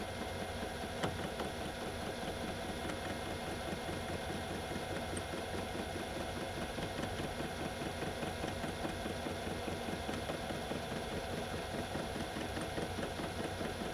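Metal lathe turning slowly on a low belt setting while a parting tool cuts into the workpiece: a steady machine hum with a fast, regular pulsing rhythm.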